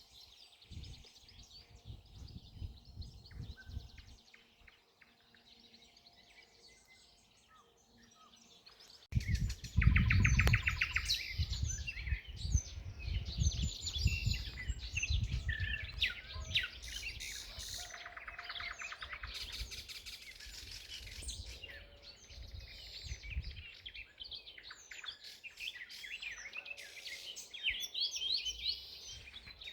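Several songbirds singing and chirping, with many overlapping calls and trills. About nine seconds in the sound changes abruptly: the birdsong becomes much louder and denser, over a low rumble.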